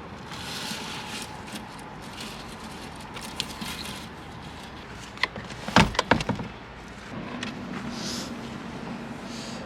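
Scattered clicks and knocks of camp gear being handled during tarp setup, with a short cluster of louder knocks about six seconds in.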